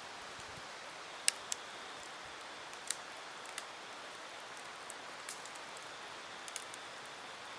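Wood campfire burning: a steady hiss with sharp crackles and pops at irregular intervals, the loudest a little over a second in.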